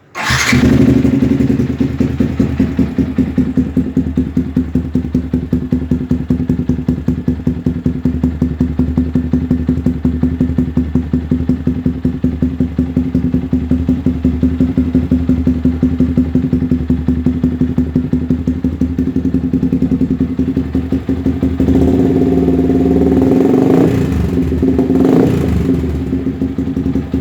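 Yamaha New Vixion Lightning's single-cylinder four-stroke engine running through a Scorpion Red Power racing exhaust: a steady, rapidly pulsing idle, then from about 21 seconds in the throttle is opened, the note getting louder and rising and falling in pitch a couple of times before settling back. The exhaust note is dense and full.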